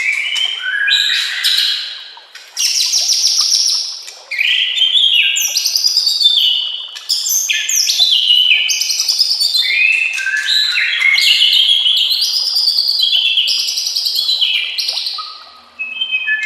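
White-rumped shama (murai batu) singing a loud, fast, varied song of whistles, rattling trills and gliding notes, with short breaks between phrases.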